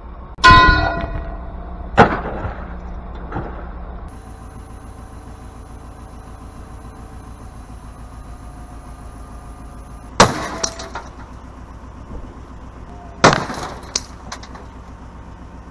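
A heavy steel gear, about 300 pounds, hits hard after a fifty-foot drop: a loud metallic clang about half a second in that rings on briefly, then another heavy strike about two seconds in, and two more loud crashes near ten and thirteen seconds. A steady engine hum runs underneath.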